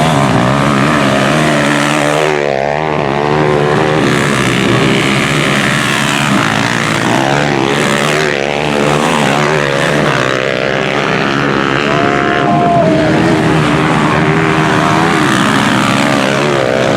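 Several Honda CG-class single-cylinder four-stroke motorcycles racing, their engines revving up and falling back through the gears with overlapping, crossing pitches.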